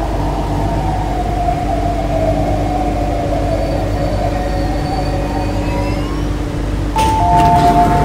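MTR Kwun Tong line C-Train electric multiple unit running, its traction motors whining in a tone that glides slowly down in pitch over a steady rumble. About seven seconds in, a two-tone electronic chime starts sounding along with a few clicks.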